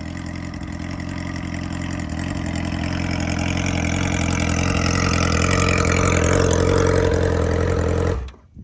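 2008 Yamaha R6's inline-four idling loudly through a catless Hotbodies shorty exhaust with the muffler deleted, steady in pitch and slowly growing louder. It cuts off suddenly near the end.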